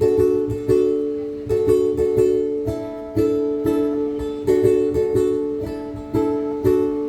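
Ukulele strummed in an instrumental passage, with no singing. Each strummed chord rings and dies away before the next stroke, in a steady repeating pattern.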